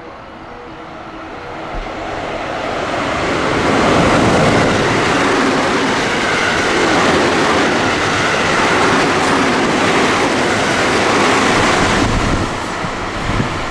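A JR West electric train passing through at speed. The rush of the train and its wheels on the rails swells about three seconds in, stays loud, and eases off near the end. A faint repeating two-note tone sounds in the first couple of seconds.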